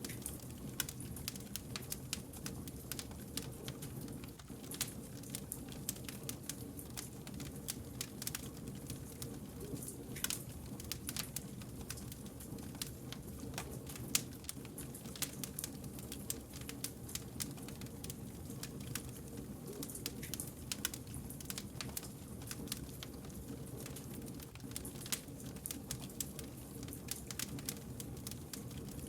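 Wood campfire crackling, with many irregular sharp pops and snaps over a low steady rumble of the burning logs.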